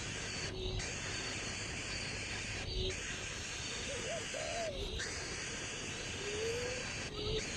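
Steady outdoor hiss with a bird's faint, short, low hooting calls, one wavering up and down a little past the middle and a longer one near the end.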